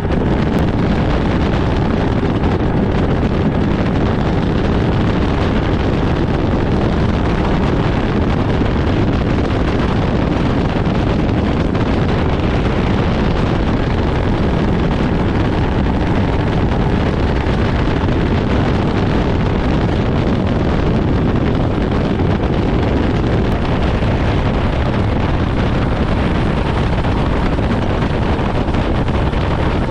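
Steady wind noise buffeting the microphone on a boat under way, with the boat's engine and rushing water beneath.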